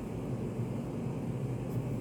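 Steady low-pitched background noise of a study cafe: a continuous hum and rumble with no breaks, with a faint light tick near the end.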